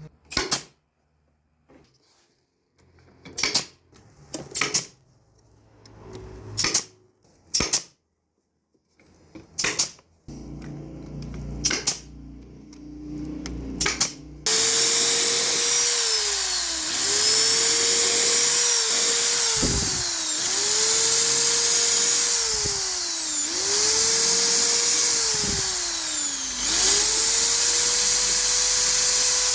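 About eight sharp wooden knocks, then a power tool starts suddenly about halfway through and runs loudly. Its motor pitch sags and recovers every two to three seconds as it is loaded into the wood.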